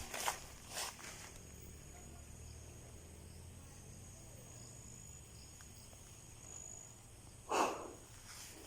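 Faint, steady, high-pitched insect chirring, like crickets, with a few rustling footsteps in the first second and one short louder rustle near the end.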